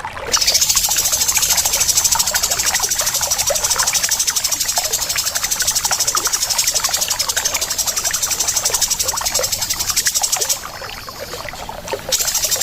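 Harsh, high, very rapid rattling birdsong, the rough 'besetan kasar' of a masteran bird-training track mixing tengkek udang kingfisher and cucak jenggot bulbul calls. It is held for about ten seconds, drops away briefly near the end, then starts again.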